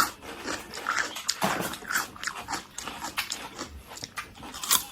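A person biting and chewing crisp raw fruit radish, a run of short crunchy snaps and chewing sounds.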